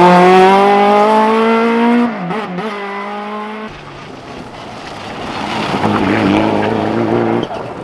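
Competition car's engine running hard under acceleration, its pitch slowly climbing, with a gear change about two seconds in. The sound drops away abruptly a little later, then builds again more faintly with a rising engine note.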